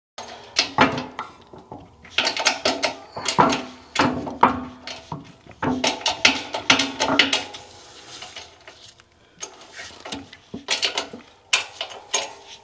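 Steel hand tools and parts clanking and clinking against metal in bunches of sharp knocks, some with a short metallic ring, while the wheel bearing and its snap ring are being worked into the hub.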